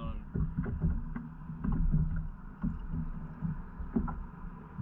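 Kayak on the water: irregular low knocks and thumps against the hull and gear, several a second, over a low rumble.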